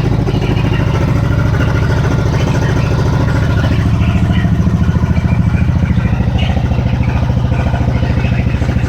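Freshly rebuilt single-cylinder motorcycle engine, with a new crankshaft, cylinder, piston and rings, idling steadily on its first test run.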